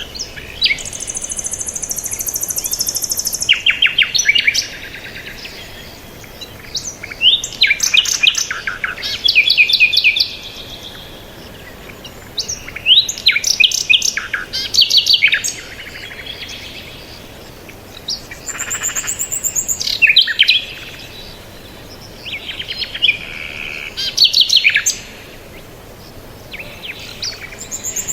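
Songbirds singing: bursts of rapid, high chirping notes every few seconds, with a high buzzy trill near the start.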